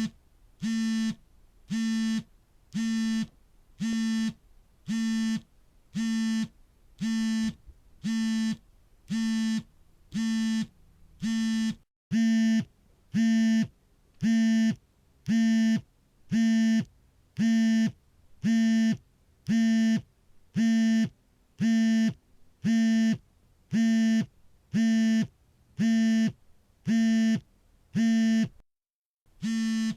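Mobile phone vibrating for an incoming call: a buzzing pulse about half a second long, repeated roughly once a second. The buzzes get louder about twelve seconds in and stop briefly near the end.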